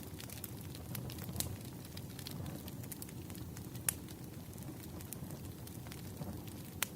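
Wood fire crackling in a fireplace: a steady low rumble of flames with frequent sharp pops, two louder snaps about four seconds in and near the end.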